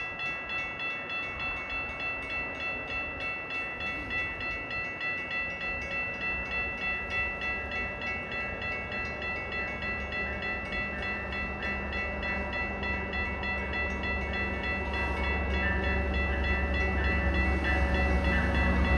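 Arriving Metra train approaching the station: a low rumble builds steadily over the last several seconds. Under it, a ringing warning tone pulses about twice a second throughout.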